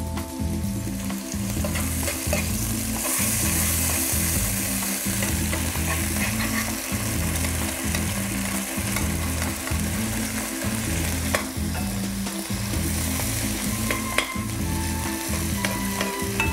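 Sliced onions sizzling in a nonstick frying pan with a splash of water, nearly wilted, while a spoon stirs and scrapes them around the pan. A low rumble runs underneath.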